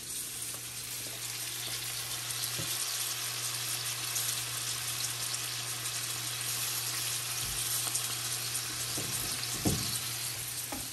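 Pork patties coated in barbecue sauce sizzling steadily in a hot skillet on the stove, with a steady low hum underneath and a few faint soft knocks.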